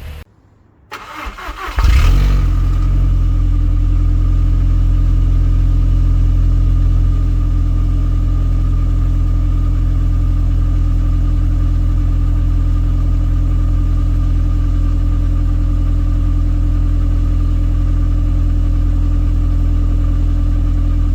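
SEAT Leon Cupra R's 1.8-litre 20-valve turbo four-cylinder (BAM) cranking briefly and catching about two seconds in, then idling steadily through its original standard exhaust, which the owner says doesn't sound too bad but has seen better days and needs replacing.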